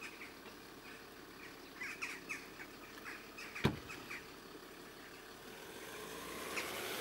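Small birds chirping faintly, a few quick chirps at a time, with one sharp knock about halfway through.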